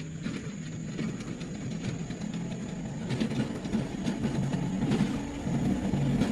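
A motor vehicle engine running with a low, uneven rumble and a few scattered clicks, growing louder toward the end.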